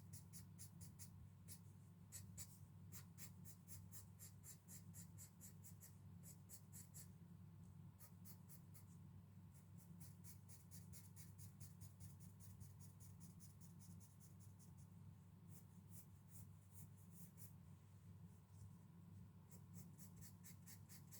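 Graphite pencil shading on paper: faint, quick scratchy strokes, several a second, in runs broken by short pauses.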